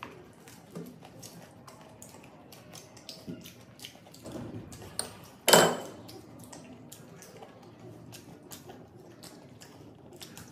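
Close-up eating sounds of chicken pizza and pani puri being chewed: many small wet mouth clicks and crackles, with one louder, sharp burst of crunching about five and a half seconds in.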